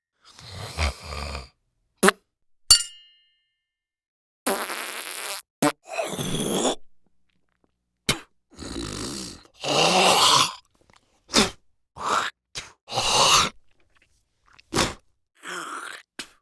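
A string of separate short non-speech human noises, mouth and breath sounds, one after another with silence between them. There are about a dozen of them, some sharp clicks and some lasting about a second.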